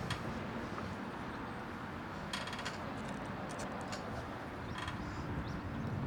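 Wind buffeting the microphone as a steady low rumble, with a short run of sharp clicks about two and a half seconds in and a few single clicks after.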